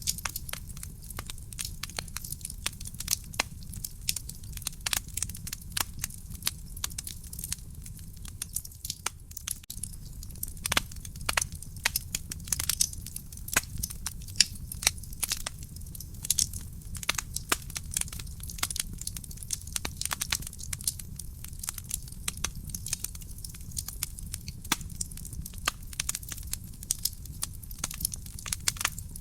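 Wood fire burning in a fireplace: dense, irregular crackling and popping over a steady low rumble.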